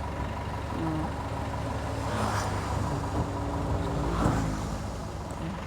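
Truck engine running steadily, heard from among the passengers riding in the truck, with two louder rushing swells about two and four seconds in.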